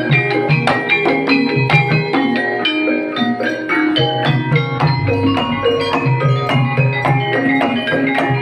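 Banyumasan gamelan accompaniment for ebeg: tuned struck bars ringing out quick, interlocking notes over a steady hand-drum (kendang) pattern.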